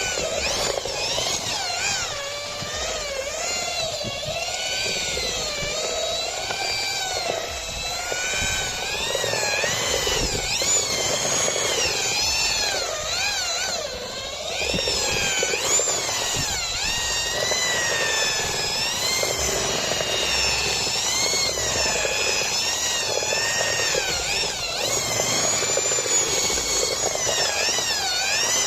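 INGCO ID11008 1100 W impact drill running under load, its motor whine rising and falling in pitch as the load and trigger speed change.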